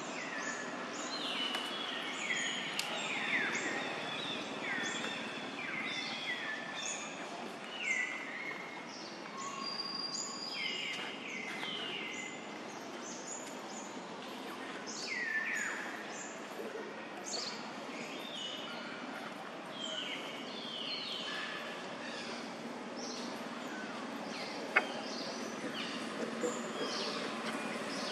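Birds chirping outdoors: many short calls, each falling in pitch, over a steady background noise, with one sharp click near the end.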